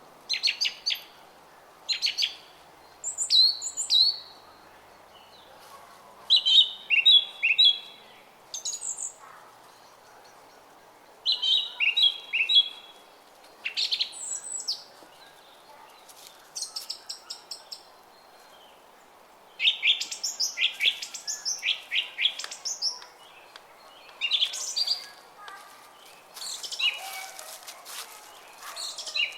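Small songbirds singing, giving short bursts of quick, high chirping notes every few seconds, some phrases repeated, over the faint steady babble of a brook.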